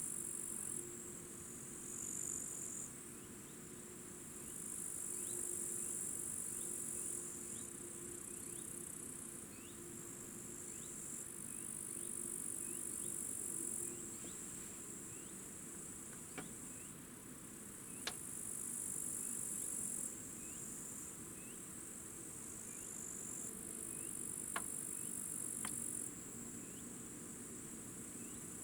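Grasshoppers or crickets trilling in a steady high buzz that swells and fades every few seconds, with a short high chirp repeated a little more than once a second and a few faint clicks.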